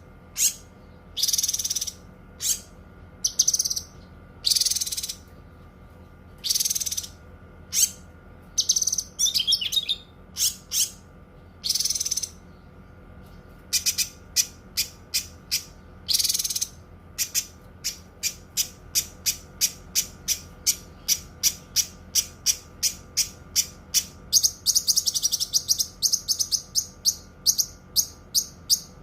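Cucak kinoi songbird calling: harsh, high chattering calls of about half a second each, spaced a second or so apart. From around halfway they give way to a fast run of short sharp chips, about three a second, turning buzzier near the end.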